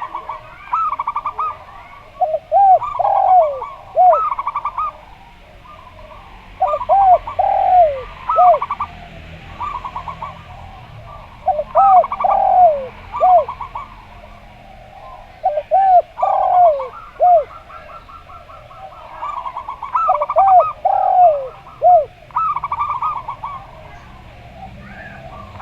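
A zebra dove and a spotted dove cooing in repeated phrases a few seconds apart: quick trilled coos mixed with lower, drawn-out swinging coos.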